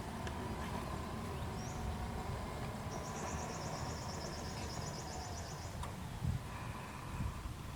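Outdoor nature ambience: a steady low rumble, with a high, rapidly pulsed trill for about two and a half seconds midway and a brief rising chirp before it.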